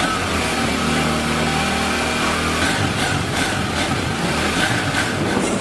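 Honda CD motorcycle's single-cylinder four-stroke engine running. Its note is steady for the first half, then turns rougher and less even from a little past halfway.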